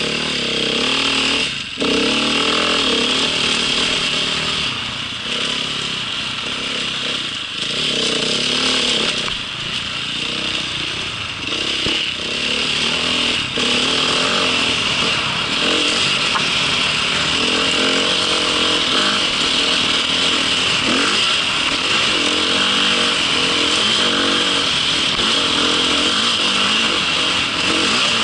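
Small vehicle engine running under way, its pitch rising and falling with the throttle over a steady rushing noise.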